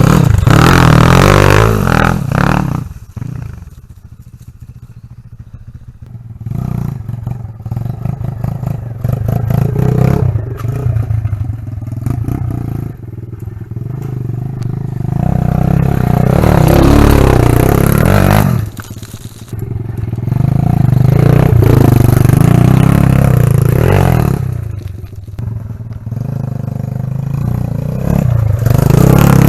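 Dirt bike engine revving and easing off as the bike rides around, loud when it is close and fading as it moves away; it swells up several times.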